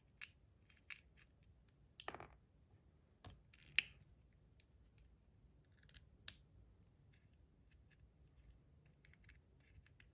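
Sparse small metal clicks and ticks from handling a metal fidget toy while it is taken apart to reach its plate, with the sharpest click about four seconds in.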